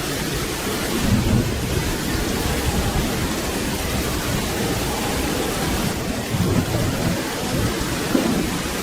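Steady rain falling, with low rolling thunder rumbling underneath and swelling a few times.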